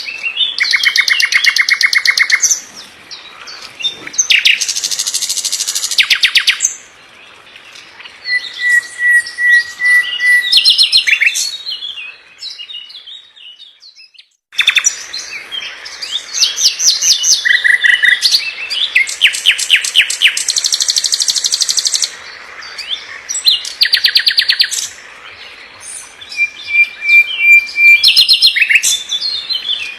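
A songbird singing in fast, high-pitched phrases: rapid trills and quick repeated chattering notes, with short pauses between phrases and a longer lull near the middle.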